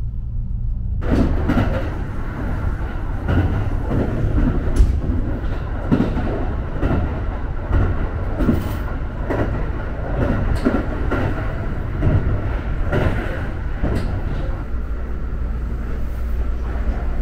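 Kintetsu Hinotori express train running, heard from inside the car: a steady rumble of wheels on track that turns much louder about a second in, with knocks coming every second or so.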